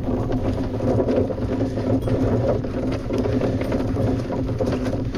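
Sailboat's engine running at a steady pace, a constant low drone with an even hum.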